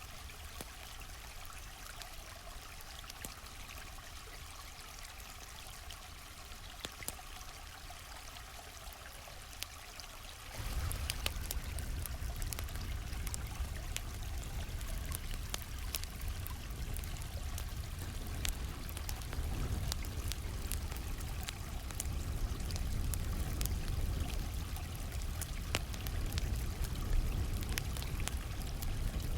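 Flowing stream running steadily, with the scattered sharp pops and crackles of a campfire. About ten seconds in, the sound suddenly becomes louder and deeper, and the crackles come more often.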